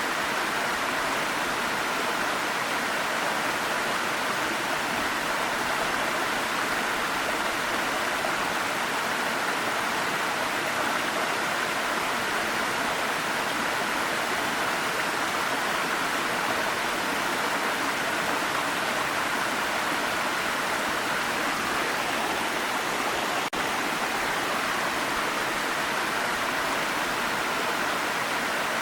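Waterfall rushing in a steady, unbroken roar of falling water, with one brief glitch about 23 seconds in.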